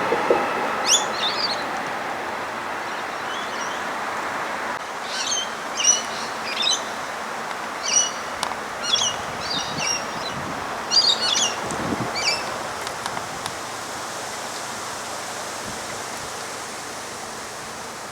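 Small birds chirping in short, repeated calls over a steady, gradually fading background hiss.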